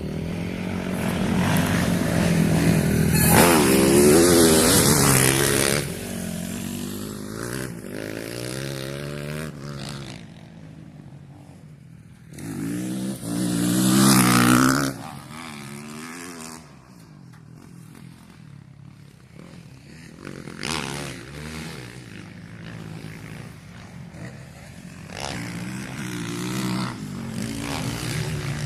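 Motocross bikes on a dirt track, their engines revving up and down as they go past. Two loud passes, the first about three seconds in and the second around thirteen seconds, with quieter, more distant engine sound in between and towards the end.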